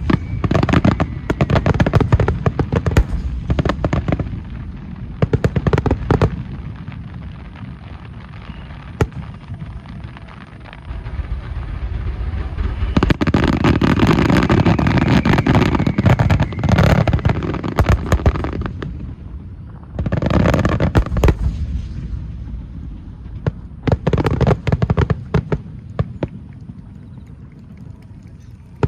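Fireworks display: several volleys of rapid aerial shell bursts and crackling, each run of bangs lasting a few seconds with quieter lulls between, dying away near the end.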